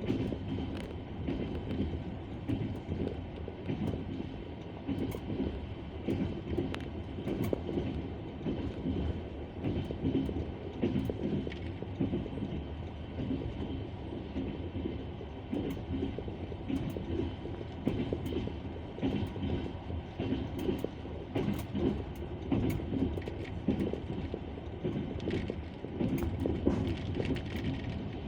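Passenger train wheels running over the rails, heard from aboard the carriage: a continuous rolling rumble with the clatter of wheels over rail joints and scattered sharp clicks.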